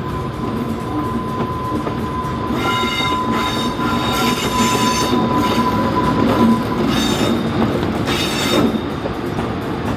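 Train rolling past with its wheels squealing against the rails in several high-pitched bursts from about three to nine seconds in, over a steady rumble.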